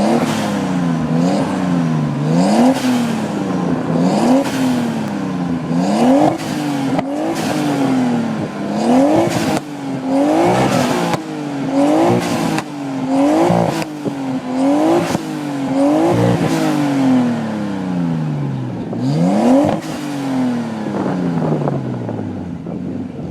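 Exhaust of a turbocharged RB25DET straight-six in a Nissan S14, revved again and again: about a dozen quick rises in pitch, each falling straight back, with sharp pops on the throttle lift-off. Near the end the revs drop away slowly and the engine quietens.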